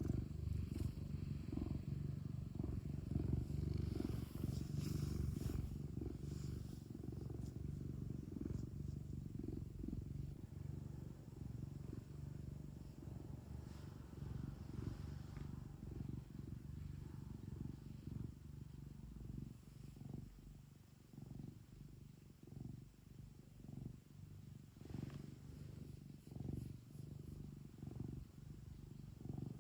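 Domestic cat purring steadily, a low rumble close to the microphone. In the second half it is quieter and swells and fades with each breath, about once a second.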